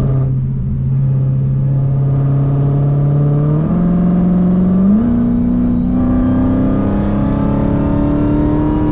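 Dodge Challenger Hellcat's supercharged 6.2-litre HEMI V8 under hard acceleration out of cruise control: the engine note jumps up in pitch a few times, then climbs steadily as the car picks up speed, and falls off right at the end as the throttle comes off.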